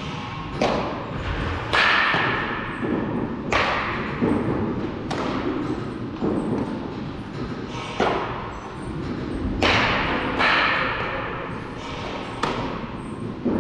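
Baseball practice hitting: a bat strikes a ball about every one to two seconds, each a sharp crack with a short ringing tail.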